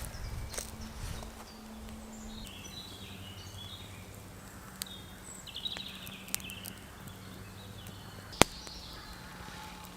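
Woodland ambience: birds chirping, a steady low hum, a few light clicks, and one sharp click about eight seconds in.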